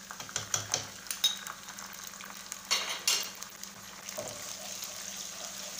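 Onions and freshly added ginger-garlic paste sizzling in hot oil in a kadai, stirred with a wooden spoon that knocks and scrapes against the pan. Sharp knocks come in the first second or so, and a louder rush of sizzling comes about three seconds in.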